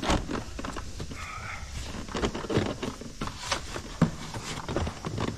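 Scattered clicks and knocks of hands working plastic covers and clips in a car's engine bay, with one sharper knock about four seconds in.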